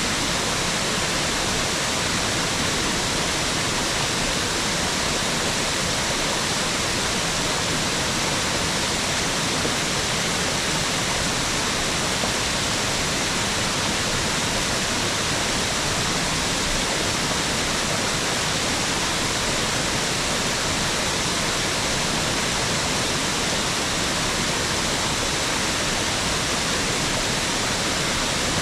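Mountain waterfall: water falling and splashing in a steady rushing hiss, strongest in the upper middle range, with no breaks or changes.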